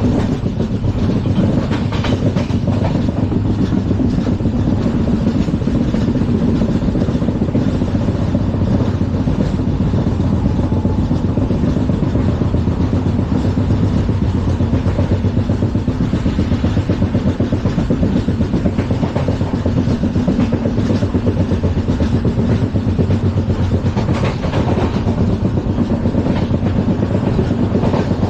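Rake of LHB passenger coaches running at speed: a steady, loud rumble of wheels on rail.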